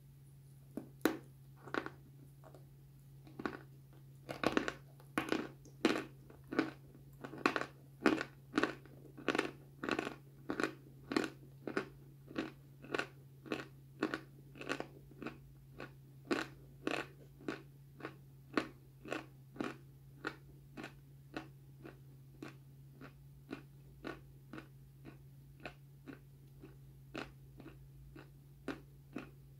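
Close-up mouth sounds of a dry, crunchy white block being bitten and chewed: a steady run of crisp crunches about two a second, loudest in the first half and slowly getting softer. A low steady hum runs underneath.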